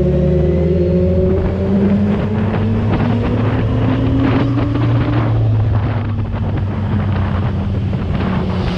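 Inline-four motorcycle engine pulling under way, its pitch slowly rising for about five seconds and then holding steady, with wind rushing over the microphone.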